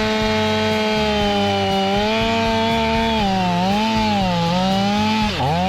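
Stihl MS500i fuel-injected two-stroke chainsaw running at full throttle, its pitch steady at first, then dipping and wavering again and again as the chain bites into wood, with a sharp dip near the end.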